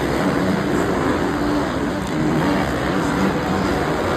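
Several supercross dirt bike engines revving and racing together, their pitches rising and falling as the riders work the throttle.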